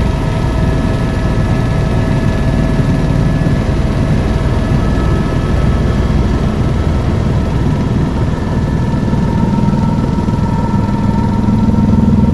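Tour helicopter's turbine engine and rotors running: a steady rumble with several high whine tones over it. About ten seconds in the whine shifts in pitch and a low hum grows louder.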